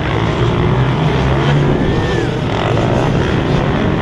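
Motocross motorcycle engines running, with one brief rise and fall in pitch about halfway through, over a steady wash of noise.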